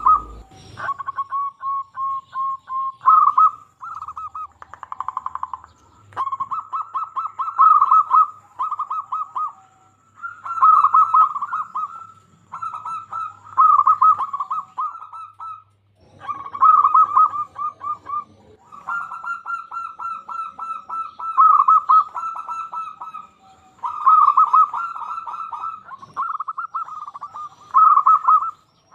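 Zebra dove (local perkutut) cooing over and over: phrases of fast rolling, staccato coos a few seconds long, separated by short pauses.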